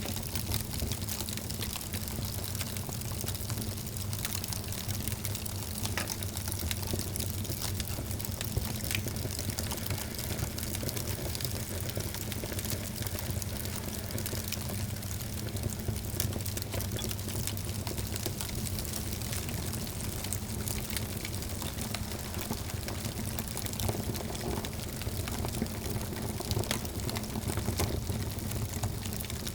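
Wood fire burning in a fireplace, crackling with frequent small pops over a steady low rumble.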